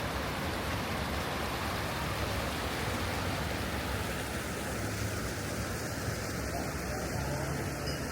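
Steady rush of flowing stream water, an even noise with a low hum underneath.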